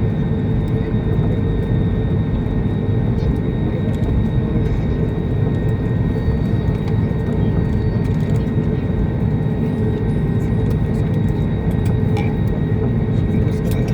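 Jet airliner cabin noise: a steady drone of engines and rushing air, with a few faint steady whining tones above it.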